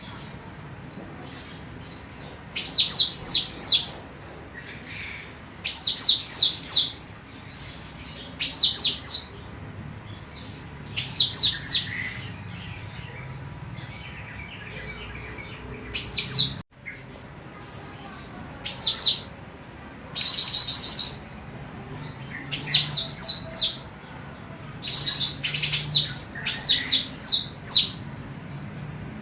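Female golden cucak rante calling: short bursts of three to six quick, high, down-slurred chirps, repeated about every two to three seconds.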